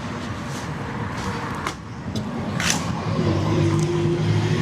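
A motor vehicle's engine running with a steady low hum that grows louder about three seconds in, with a couple of short clicks before it.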